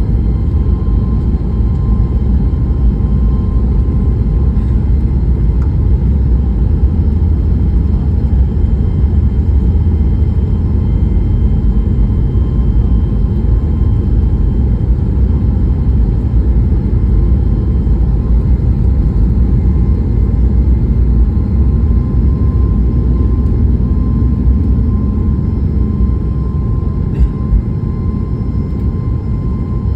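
Boeing 737 MAX 8's CFM LEAP-1B jet engines at departure power: a loud, steady deep rumble with a thin steady whine above it, easing off slightly near the end.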